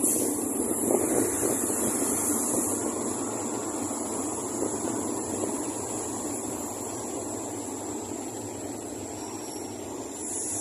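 Passenger train rolling slowly along a station platform, heard from an open carriage window: wheel-on-rail rumble and air rush that grow gradually quieter as the train slows to stop.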